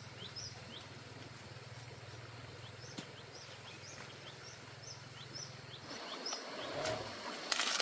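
A bird calling repeatedly: short high chirps that drop in pitch, a couple or so a second, over a steady low hum that stops about six seconds in. Rustling and clicking follow near the end.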